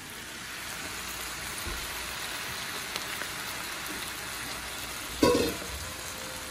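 Fresh spinach sautéing in a hot cast-iron skillet on medium heat: a steady sizzling hiss as the leaves steam and wilt. A short louder sound breaks in about five seconds in.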